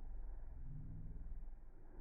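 Honeybees buzzing at a hive entrance, slowed down into a low, wavering drone.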